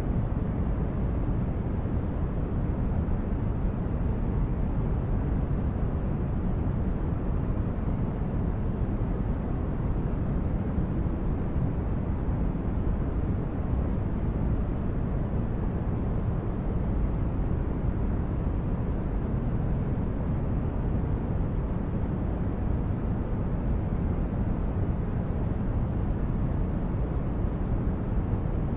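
Synthetic starship-corridor ambience: a steady, deep brown-noise drone, heaviest in the bass and thinning toward the treble, with no changes.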